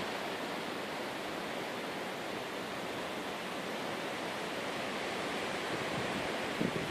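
Steady outdoor wind noise, an even hiss with no distinct events, and a faint bump near the end.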